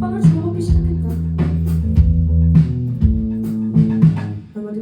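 Live band playing an instrumental passage: sustained bass-guitar notes, guitar and regular drum hits. The bass and drums drop out about four and a half seconds in, leaving the lighter guitar.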